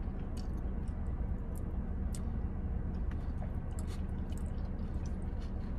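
A woman quietly chewing a mouthful of bourbon chicken and fried rice, with scattered faint clicks of a plastic fork against a foam takeout container. A steady low hum of the car cabin runs underneath.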